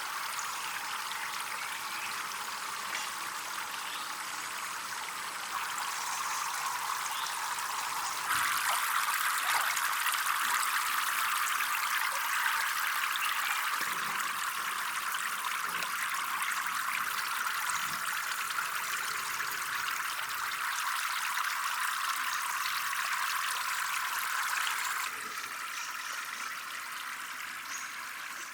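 Water trickling and flowing steadily. It grows louder about eight seconds in and drops back near the end.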